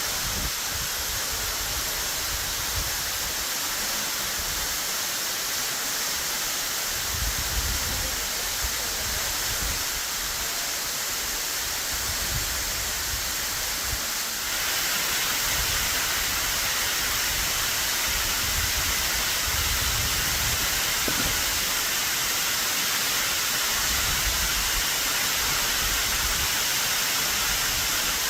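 Waterfall cascading in high spring run-off: a steady rushing of water, which grows louder about halfway through.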